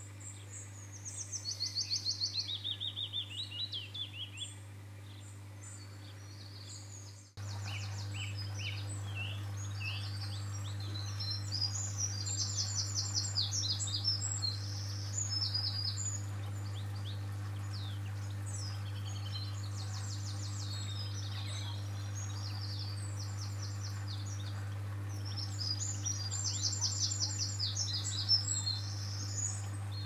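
Small songbirds singing in fast, high trills and chirps, one trill falling steadily in pitch near the start and several birds overlapping later. A steady low hum sits beneath, growing louder after a sudden cut about seven seconds in.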